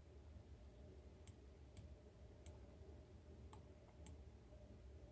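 Near silence with a faint low hum and several faint, irregularly spaced computer mouse clicks.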